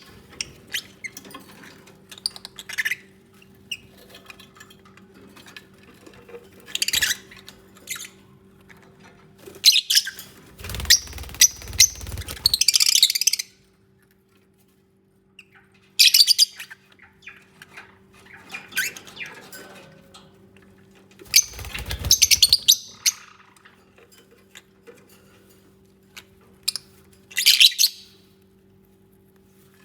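Lovebirds giving shrill chirps and squawks in short, scattered bursts. The two longest bursts come about a third and about three-quarters of the way in, with low thumps beneath them. A faint steady hum runs underneath.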